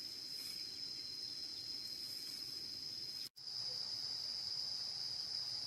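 A chorus of insects in the countryside, a steady high-pitched drone. It cuts out for an instant a little past halfway, then carries on a little louder.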